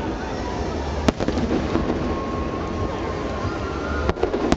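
Nagaoka aerial fireworks shells bursting: a sharp crack about a second in and two more near the end, over a continuous rumble and crackle from the display and the crowd.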